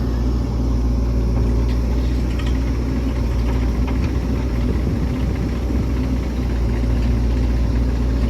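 Diesel engine of heavy machinery running steadily with a deep, even hum, and a few faint clinks over it.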